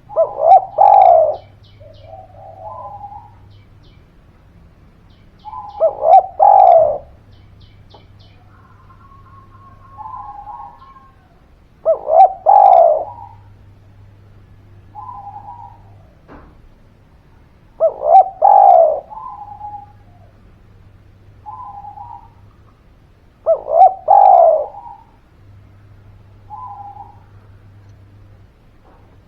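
Spotted dove (derkuku) cooing: a loud multi-note coo phrase repeated five times, about every six seconds, each followed a second or two later by softer short coos.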